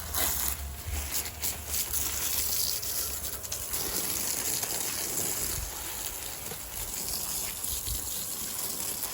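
Water spraying from a garden hose onto plants, a steady hiss.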